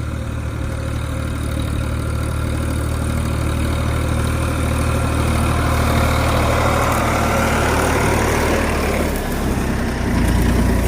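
Tractor engine running steadily while it pulls a cultivator through a field, with a rough, even mechanical noise over the low engine note. Near the end the engine note turns deeper.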